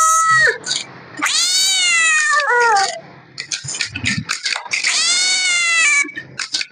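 Kitten meowing over and over: long, high, loud calls that slide down in pitch, about one every two seconds.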